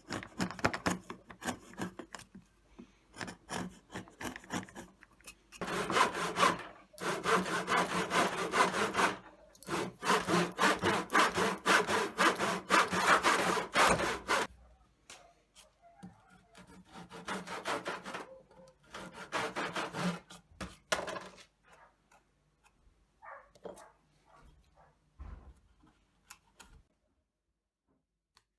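Wood being cut with a hand tool in quick back-and-forth strokes, steady through the first half. After that it comes in shorter bursts and stops a little before the end.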